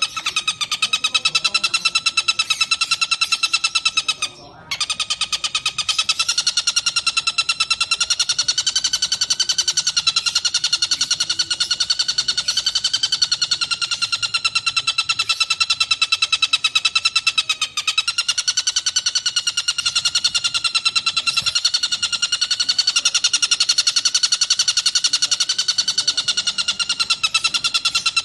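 Tengkek buto kingfisher giving a long, rapid, continuous chattering call, a fast string of harsh notes that breaks off briefly about four seconds in and then carries on.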